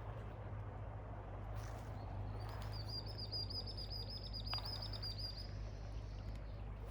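A bird singing a rapid high trill for about three seconds, starting a couple of seconds in, over steady outdoor background noise with a low hum.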